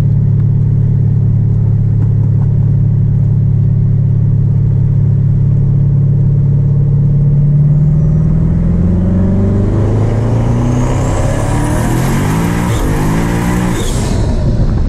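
Twin-turbo Hellcat's Hemi V8 running at a steady low speed, then revving up about eight seconds in, with a high whine rising over it until shortly before the end.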